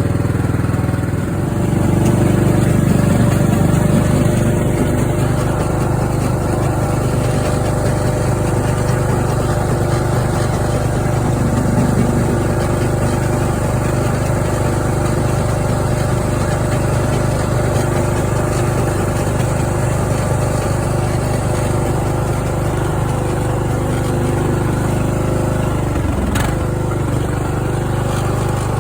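Craftsman riding mower's engine running steadily, now that its fuel shutoff solenoid, fuel filter and spark plug have been replaced. It gets louder about a second and a half in, and near the end its speed dips briefly and picks back up.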